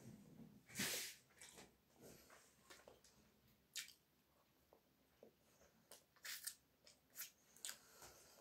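Faint close-up eating sounds of a person biting and chewing a piece of bread with topping, with scattered short clicks and smacks; the loudest comes about a second in.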